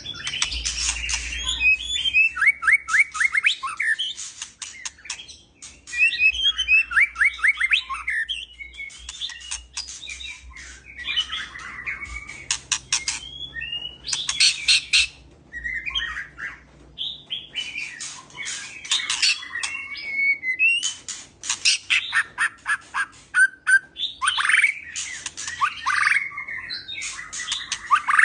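A male murai, a Copsychus songbird, singing a long, varied song of whistled phrases and quick trills, mixed with runs of harsh, rapid chattering notes and short pauses between phrases. It is calling to a female to mate.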